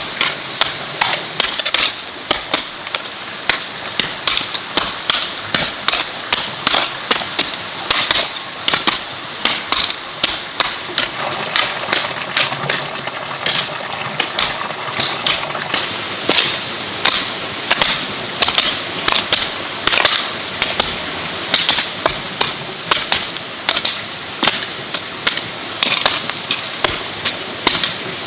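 Repeated sharp knocks, about two a second, the steady rhythm of striking work such as chopping or hammering, over a steady high-pitched tone.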